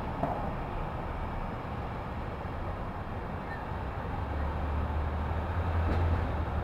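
City street traffic: a steady wash of traffic noise, with a low engine rumble from a nearby vehicle swelling a little over four seconds in and peaking near the end.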